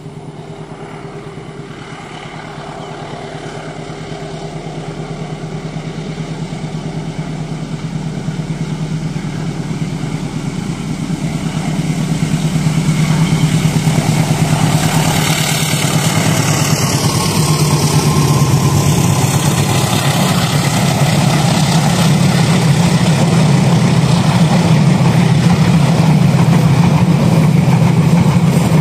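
Diesel locomotive approaching, its steady low engine hum growing louder throughout, with wheel and rail noise building up from about halfway in.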